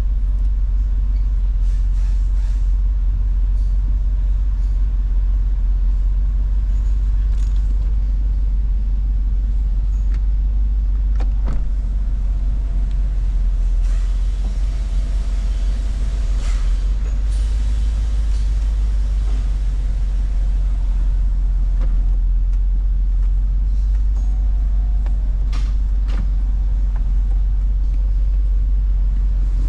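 2019 Cadillac Escalade ESV's 6.2-litre V8 engine idling steadily with a low, even rumble, with a few faint clicks over it.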